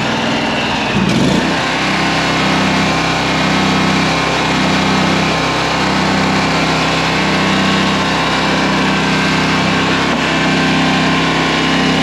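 Toro Z587L zero-turn mower's engine running steadily at idle while it warms up to operating temperature, with a brief change in its note about a second in.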